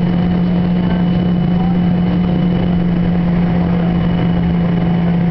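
Steady drone of a Boeing 777-300's cabin on the ground before take-off, heard from inside: an even rush of air and machinery with a strong low hum that does not change.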